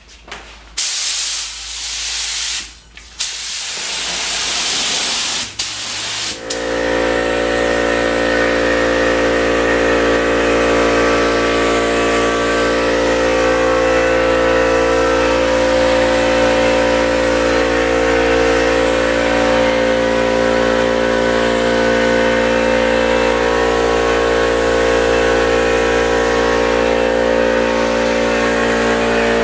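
Compressed-air spray gun hissing in short bursts as the trigger is pulled and released. About six seconds in, an air compressor starts and runs steadily, a hum of many steady tones, with the spray hiss going on beneath it.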